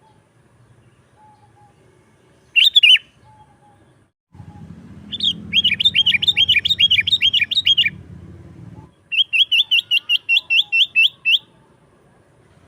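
Sooty-headed bulbul calling: a short burst of notes, then two fast runs of repeated chattering notes, about four or five a second, each run lasting a few seconds.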